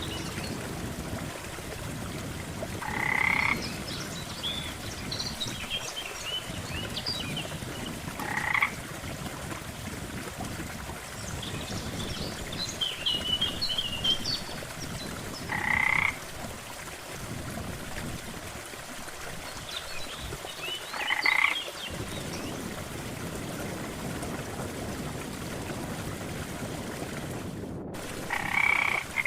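Frogs croaking, one loud croak every five to seven seconds, with fainter high chirps in between over a steady background hiss of water. The sound drops out for a split second near the end.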